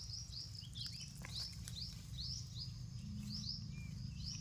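A bird calling in a rapid series of short, high, falling chirps, about three a second, over a faint low background hum.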